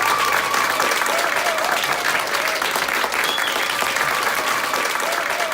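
Audience applauding, a dense steady patter of many hands clapping; the last held sung note of the duet fades out in the first second.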